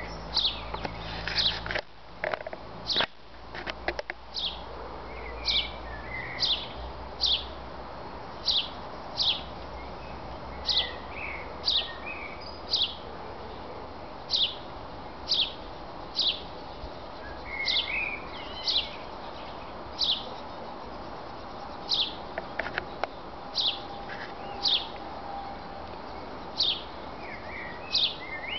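Great tit repeating a single high note that falls in pitch, about once a second, with some softer, lower twittering now and then. A few knocks come in the first few seconds.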